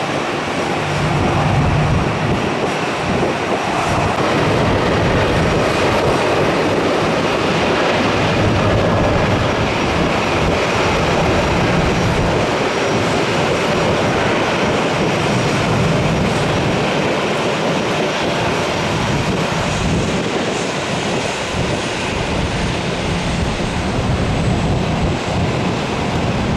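Jet airliner engines running with a loud, steady rush of noise. Near the end a faint high whine slowly falls in pitch.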